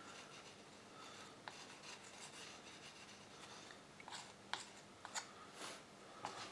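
Faint rubbing of a paintbrush dabbing paint onto watercolour paper, followed by a few light ticks and taps in the last couple of seconds as the brush is lifted away.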